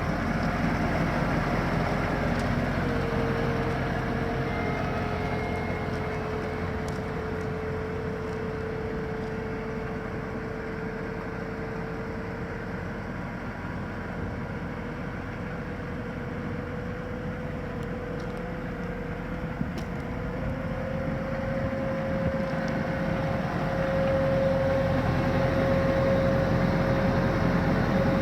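1980 Ford LN8000 grain truck's engine running steadily, with a thin whine that climbs slowly in pitch and gets louder in the last third.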